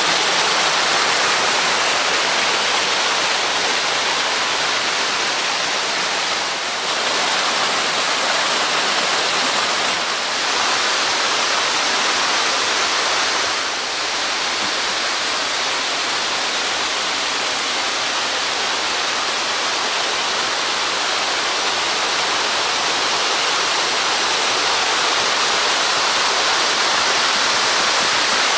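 A 6 m waterfall: water pouring and splashing in a loud, steady rush.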